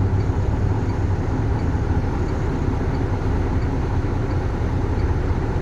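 Tractor-trailer's diesel engine idling steadily at a stop, heard from inside the cab as an even low rumble.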